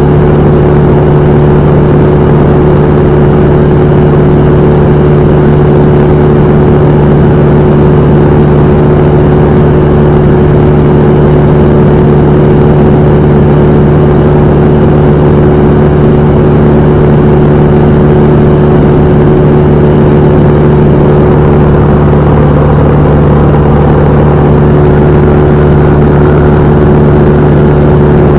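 Cessna 172M's four-cylinder Lycoming engine and propeller droning steadily and loudly at constant power, with a strong steady hum and no change in pitch.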